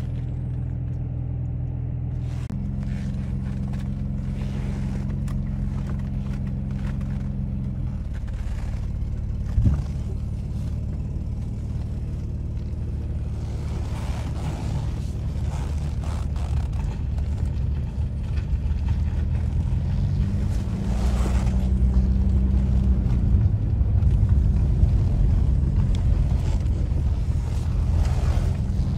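Engine of a 1991 Mercedes-Benz 190E (W201), heard from inside the cabin: idling steadily, with a single short thump about ten seconds in. Then the car drives off, and the engine and road noise get louder and rougher.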